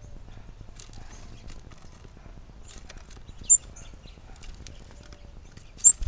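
Small backyard birds: two short, high chirps, one about halfway through and one near the end, over faint scattered ticking and tapping.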